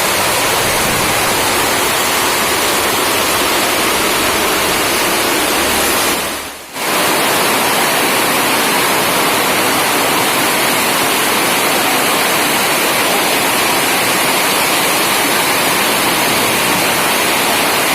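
Heavy rain pouring down as a steady, dense hiss, with a brief dip about six and a half seconds in.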